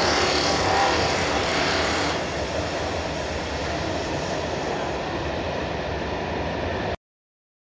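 Freight train wagons rolling past on the station tracks, a steady rumble of wheels on rails that eases a little about two seconds in. The sound cuts off abruptly near the end.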